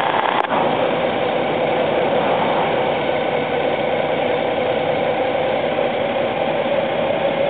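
Honda GL1800 Gold Wing's flat-six engine running steadily at low speed, picked up from the handlebars.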